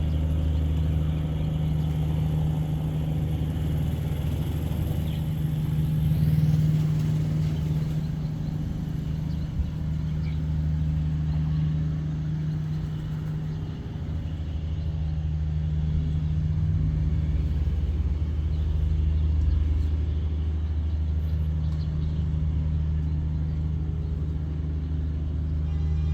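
Tugboat engine running with a steady low drone, swelling and easing slightly in loudness.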